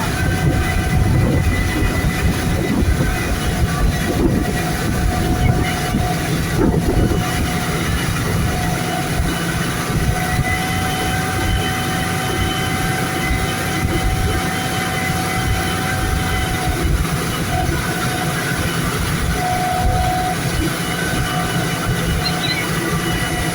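Motorboat engine running steadily at speed, a continuous drone with held tones over rushing wind and water.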